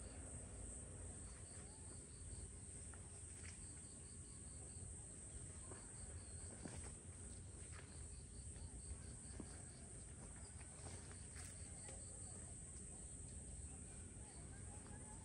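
Faint insect chorus: a steady high-pitched drone, with a lower chirping in short trains of rapid pulses that start and stop every second or two, and a few scattered light clicks.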